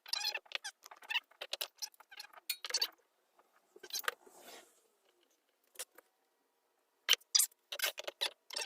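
Scratchy rustling and scraping in quick, irregular bursts, with short pauses between runs: hands handling and rubbing small parts.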